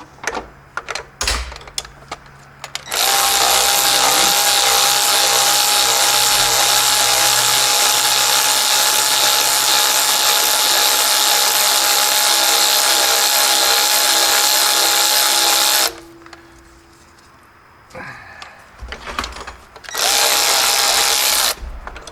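A power tool, a drill-type driver, runs steadily with a high whine and hiss for about thirteen seconds after a few clicks, stops, then runs again briefly near the end.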